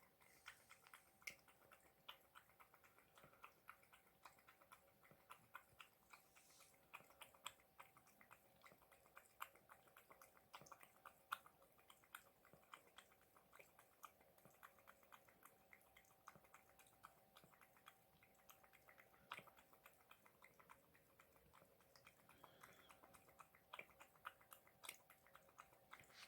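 Cat lapping water with its tongue: a long run of quick, wet clicks several times a second, with a faint steady hum underneath.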